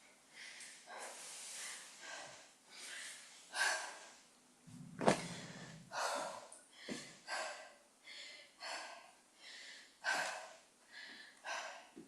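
A person breathing hard and fast through the mouth, quick heavy breaths in and out, recovering from a minute of high-knee cardio. A single sharp knock about five seconds in.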